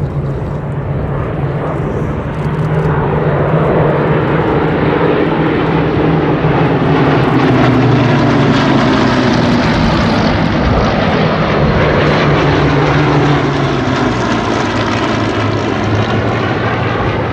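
Hawker Hurricane fighters' Rolls-Royce Merlin V12 piston engines droning in a flypast. The sound grows louder towards the middle, and the engine note falls in pitch as they pass by.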